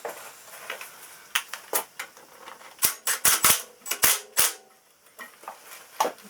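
A series of sharp metal knocks and clanks from working on a bench grinder. There are scattered light taps, then a quick run of about six loud knocks in the middle, some leaving a short ring.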